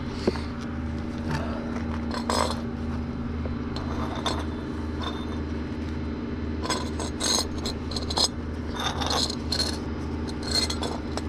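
A vehicle engine idling steadily, with scattered metallic clinks and scrapes over it.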